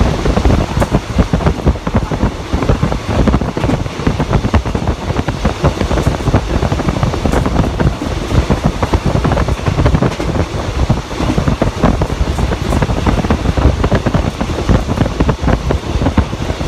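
Wind buffeting the microphone at the open window of a moving train, over the train's running rumble on the track. The noise is loud and heavy in the low end, surging up and down.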